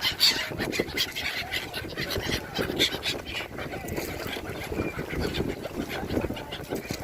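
Flock of gulls calling, many short harsh cries overlapping one another.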